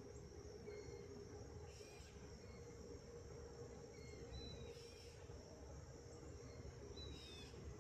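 Quiet evening ambience: a steady high trilling of insects with a few short, falling bird chirps, over a faint low rumble.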